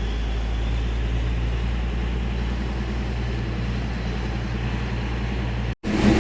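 Diesel locomotive of the narrow-gauge Bilimora–Waghai train running steadily with a low drone. The sound cuts out abruptly near the end.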